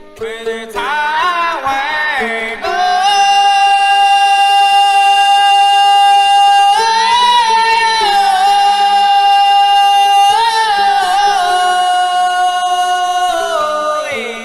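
Yunnan Haicai-tune (haicai qiang) folk singing: a high voice sweeps through ornamented turns, then holds very long steady notes. It breaks into wavering ornaments about halfway and again about three quarters through, over a lower steady part.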